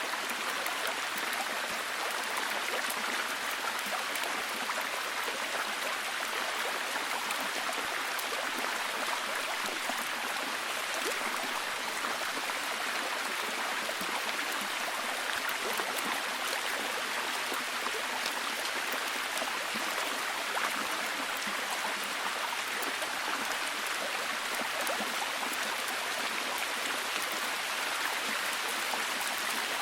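Steady heavy rain falling, an even hiss with fine scattered drop ticks.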